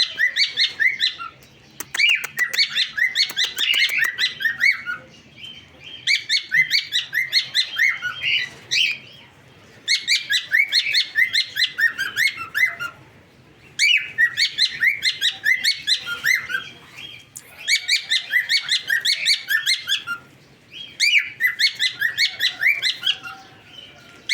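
Cockatiel chattering in repeated bursts of rapid chirps, each burst a few seconds long, with short pauses between them.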